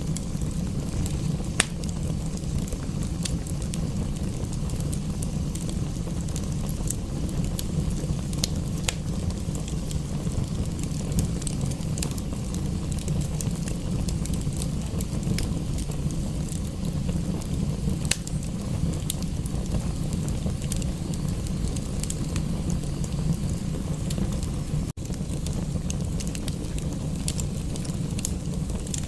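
Wood fire in a fireplace crackling, with scattered sharp pops over a steady low rush. The sound drops out for an instant about 25 seconds in.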